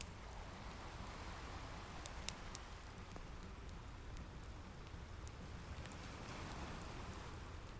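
Ocean waves washing in a steady rush with a low rumble, and a wood fire crackling over it with scattered sharp pops, the loudest a little over two seconds in.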